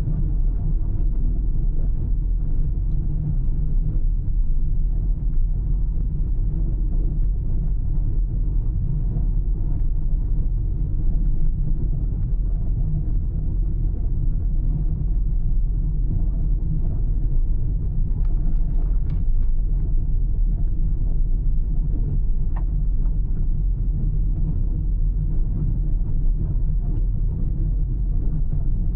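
A car driving steadily along a road, with a continuous low rumble of engine and tyre noise.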